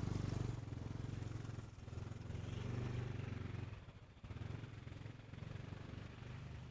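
A small engine running steadily close by. It eases off briefly about four seconds in, then picks up again.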